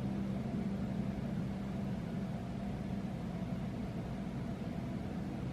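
Soft ambient background music: a steady, low droning pad of sustained tones.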